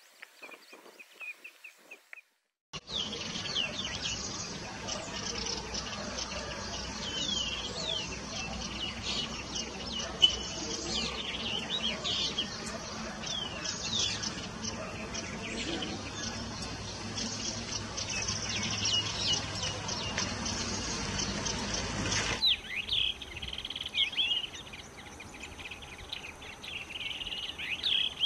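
Small birds chirping and calling: many short, high chirps and twitters overlapping one another, over a steady outdoor background hiss. The calls cut in after a brief silence about three seconds in. There is one brief louder sound about ten seconds in, and the background changes abruptly near the end, where the chirps go on more sparsely.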